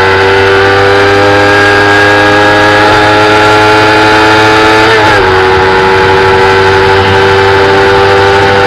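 Yamaha YZF-R25's parallel-twin engine running hard at speed, its pitch steady, then dropping sharply about five seconds in as the rider shifts up a gear and holding at the lower pitch.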